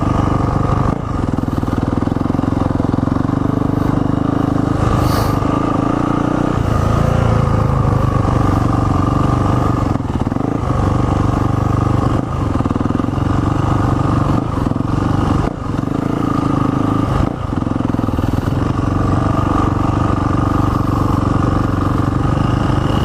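Dirt bike engine running steadily at low speed, its note shifting about six and a half seconds in, with a few light clattering knocks.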